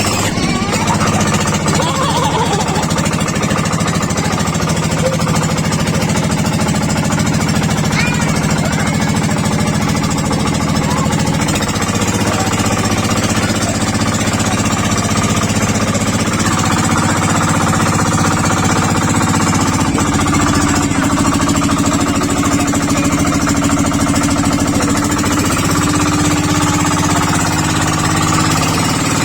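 A boat engine running loud and steady with a hard, fast chugging, its pitch shifting slightly a few times.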